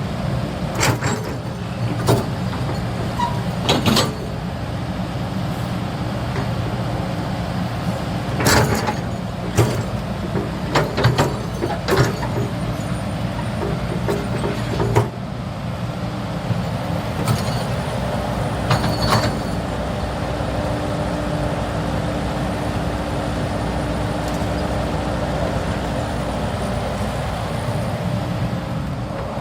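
Hydraulic excavator's diesel engine running steadily, with sharp metallic clanks and knocks scattered through the first half.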